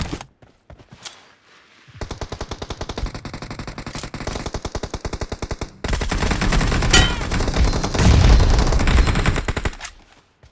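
Video-game automatic gunfire. A shot or two comes first, then rapid sustained fire starts about two seconds in. From about six seconds in it is denser and louder, with heavy low booms, and it stops shortly before the end.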